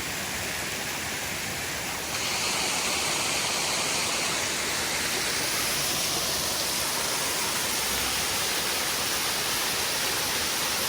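Scaleber Force, a waterfall dropping over rocky ledges, rushing steadily up close. The water noise gets a little louder and brighter about two seconds in, then holds steady.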